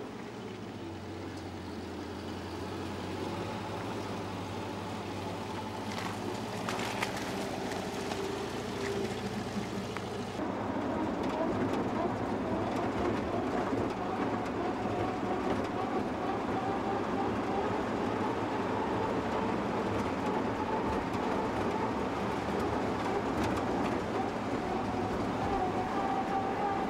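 VW Typ 166 Schwimmwagen's air-cooled flat-four engine running as it drives through mud. About ten seconds in the sound turns louder and closer, with a whine that slowly rises in pitch, and a few short knocks come before that.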